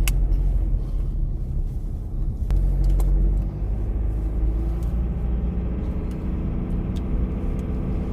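Car engine running steadily with a low rumble, with a few short clicks at about the start, two and a half, three and seven seconds in.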